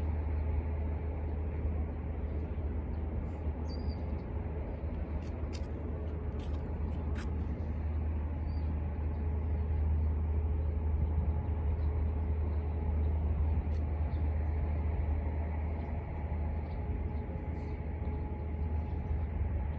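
Steady low rumbling outdoor background noise, like distant traffic, with a few faint high chirps and a couple of sharp clicks about five to seven seconds in.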